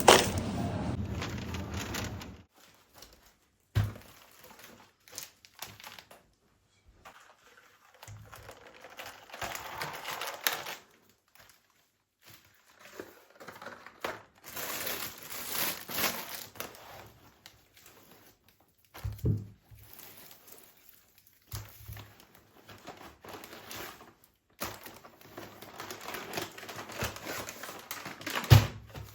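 Crinkling and rustling of things being handled, with a few dull thunks of objects being set down. A steady rumble stops about two seconds in.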